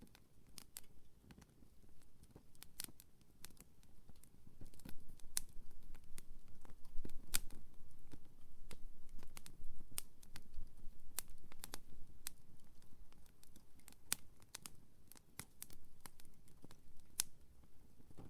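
Wood campfire burning, with irregular sharp crackles and pops over a low rumble of the flames. The crackling grows busier and louder for several seconds in the middle, then thins out.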